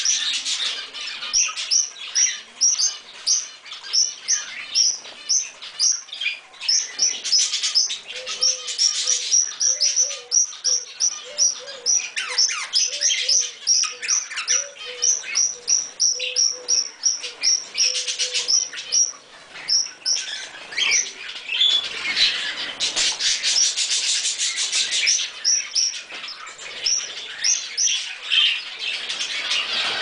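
Birds chirping in a fast string of short, high calls, several a second, with louder, harsher stretches of squawking in the second half.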